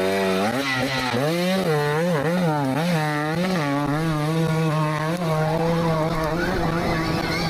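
Dirt bike being revved in quick throttle blips, its pitch swinging up and down about twice a second. It then holds a steady pitch from about five seconds in, with rougher noise rising near the end.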